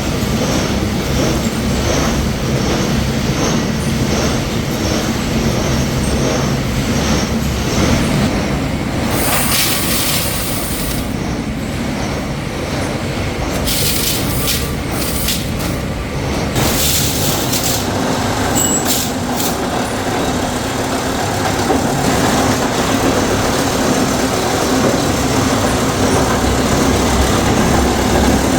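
Metalworking machinery running in a workshop: a loud, steady mechanical din with a low hum, and a few brief stretches of harsh high-pitched hissing noise around the middle.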